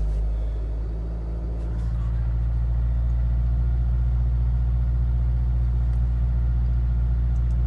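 Edelbrock-supercharged Mazda MX-5's four-cylinder engine idling steadily, the idle hovering high, which the owner suspects is a vacuum leak.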